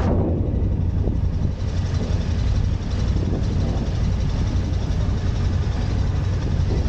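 Steady low engine drone of a car ferry, a constant deep hum under an even rumble.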